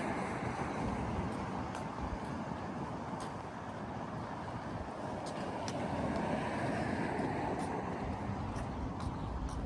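Steady city street traffic: car and bus engines and tyres running past, swelling a little around the middle, with faint scattered ticks over it.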